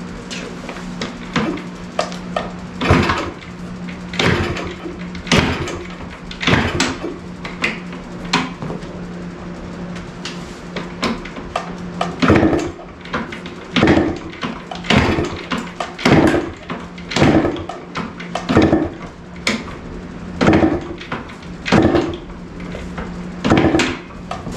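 1974 Yamaha DT100 two-stroke engine being kicked over again and again, about one kick a second, each stroke a sharp clunk of the kickstarter turning the engine. It does not fire: the carburetor has not yet been cleaned.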